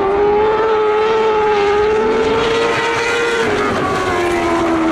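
A lightning sprint car's engine running at high revs, its note holding steady and then dropping near the end as the driver lifts off. A second engine rises faintly underneath about two seconds in.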